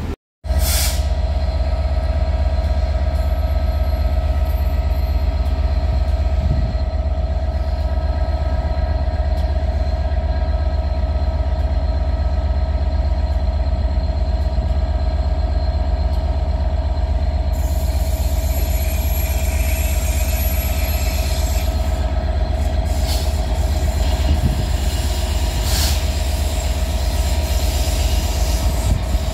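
A train running with a steady low drone and a constant whine over it, unchanging for the whole stretch.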